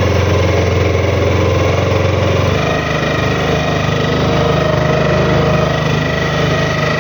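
Boat engine running steadily, its note changing about two and a half seconds in.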